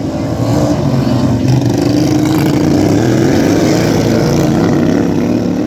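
Engines of racing lawn tractors running hard as the field goes by, several overlapping, one climbing in pitch about a second in.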